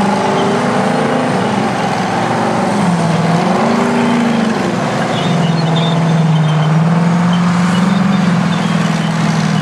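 Heavy diesel engine of a vintage crawler bulldozer working under load, its note rising and falling, then holding steadier for the last few seconds.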